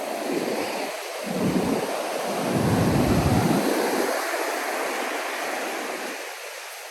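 Ocean surf washing on the beach: a continuous rushing wash that swells in the middle and eases near the end, with low rumbles of wind buffeting the microphone.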